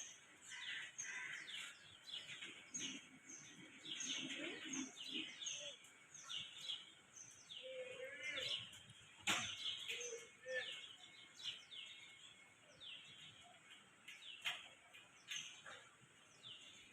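Birds chirping faintly: a steady series of short, high, downward-sliding chirps repeated every half second or so, with a single sharp click about nine seconds in.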